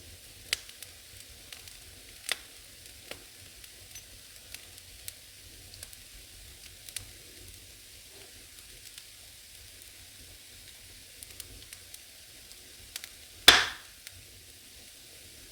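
Firewood burning in an old fireplace, crackling with scattered sharp pops over a faint steady hiss, and one louder crackling burst near the end.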